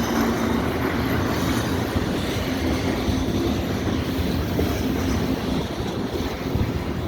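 Norfolk Southern freight train rolling past, a steady rumble of locomotive engine and wheels on the rails.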